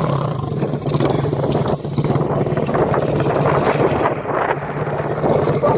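125cc pit bike's single-cylinder engine running hard at a steady pitch during a burnout.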